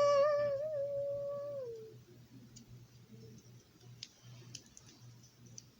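A child's voice holding one long sung note on the word "love", ending about a second and a half in, then a low steady hum with a few faint clicks.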